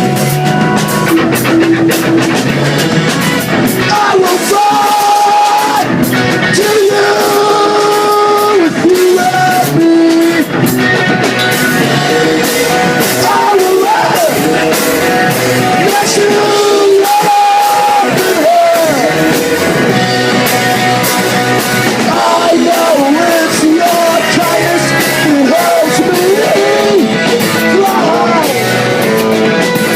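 Live rock band playing a song: guitars and drums with a singer's voice over them, loud and continuous.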